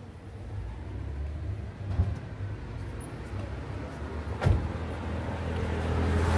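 Car engine idling with a steady low hum, with two sharp knocks, about two seconds and about four and a half seconds in.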